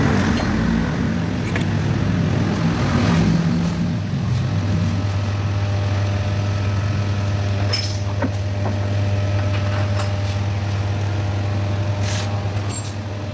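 A motor vehicle engine running, settling into a steady low idle about four seconds in, with a few light clicks near the end.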